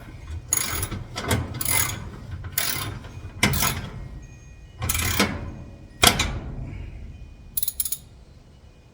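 Ratchet wrench working on the door-lock hardware: about eight short bursts of ratcheting clicks at irregular intervals, dying away near the end.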